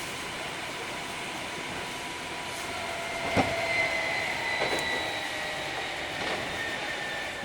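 Hankyu 3300 series electric train running, heard from inside the car. A steady motor/gear whine slowly falls in pitch as the train slows, with a few sharp clunks of the wheels over rail joints.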